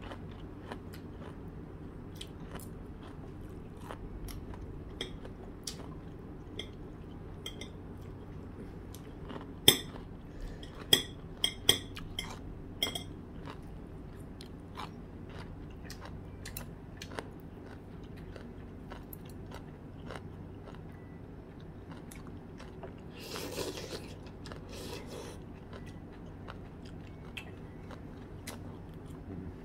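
Close-up eating sounds at a meal: chewing and crunching of food, with scattered small clicks and a few sharper clicks about ten to thirteen seconds in, over a faint steady hum.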